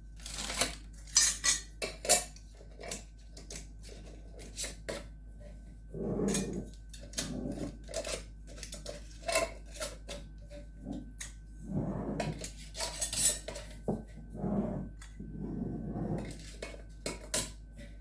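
Metal canning lids and screw rings clinking against each other and against glass quart jars as they are handled and put on, with sharp clicks throughout and a few duller scraping sounds in between.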